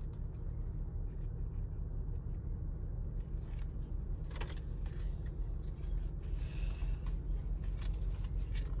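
Steady low rumble of a car, heard from inside the cabin, with a few faint clicks and a brief hiss about six and a half seconds in.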